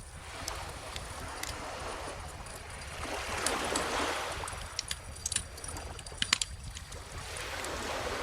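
Wood fire crackling with sharp pops and snaps, over gentle ocean waves washing on the shore; one wave swells and recedes in the middle, and a cluster of loud pops comes a little after.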